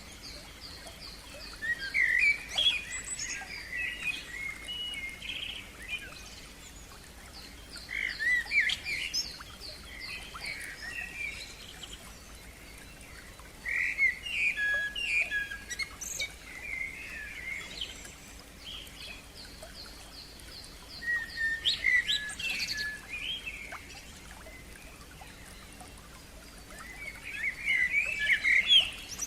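Songbirds singing. One bird repeats a loud song phrase of about two seconds every six or seven seconds, while another keeps up a thin, fast series of high, even notes between the phrases.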